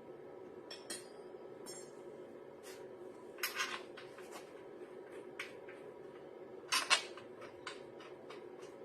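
Metal parts or hand tools clinking and tapping against each other, a scattered series of light strokes with two louder clusters about three and a half and seven seconds in, over a steady low hum.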